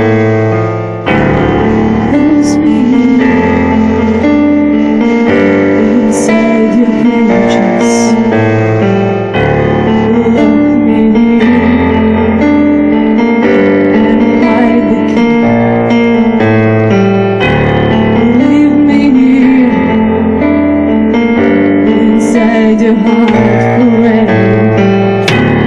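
A band playing a song: keyboard chords over a bass line, with a woman singing.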